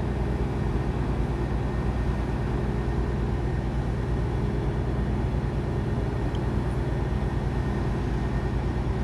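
A large engine running at a steady deep drone, with an even low hum that does not change.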